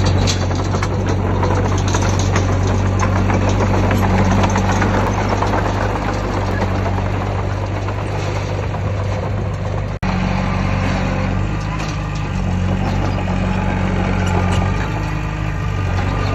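Heavy diesel engine of earthmoving machinery running steadily: a low hum with rough mechanical noise over it. The sound drops out for an instant about ten seconds in.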